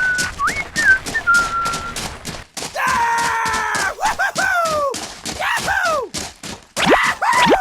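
Whistled notes that slide up and down in pitch over fast, even clicking, about four clicks a second. A held, chord-like tone comes in about three seconds in, and several notes swoop down in pitch near the end.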